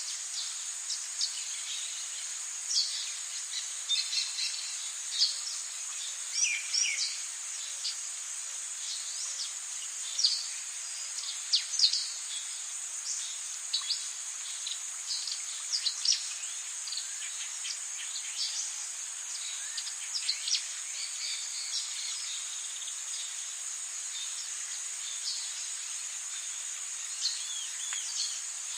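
Rainforest ambience: a steady high-pitched insect drone under many short chirping bird calls, which grow fewer toward the end.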